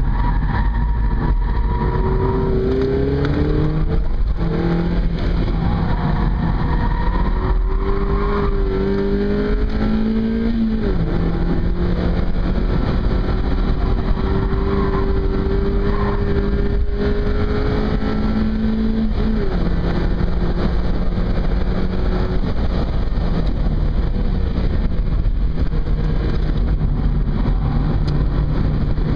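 Mazda MX-5's four-cylinder engine at track speed, heard from inside the cabin: its pitch climbs under acceleration and drops back several times, over steady road and wind noise.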